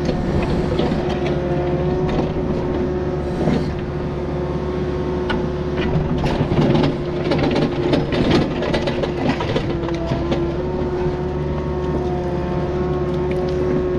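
Takeuchi excavator running steadily with a constant whine, with scattered clanks and knocks from the machine at work.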